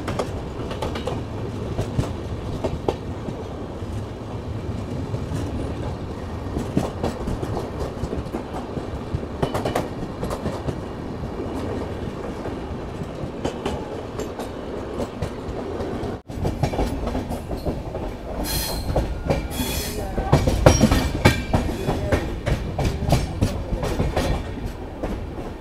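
Ranthambhore Superfast Express passenger train running, a steady rumble with its wheels clacking over rail joints. About 16 seconds in the sound breaks off abruptly and resumes louder, with a denser run of clacks and knocks.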